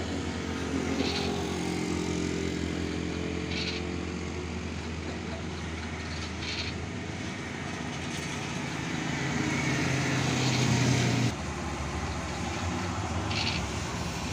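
Heavy truck engine pulling hard up a steep climb, building in pitch and loudness over several seconds, then dropping off abruptly about eleven seconds in.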